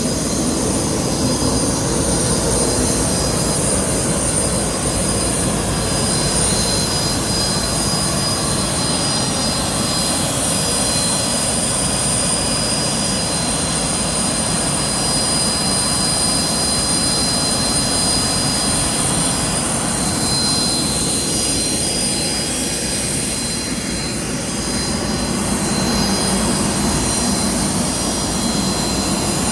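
Jet aircraft noise on an airport apron: a steady whine with several high tones over a continuous rumble. It dips briefly about 24 seconds in.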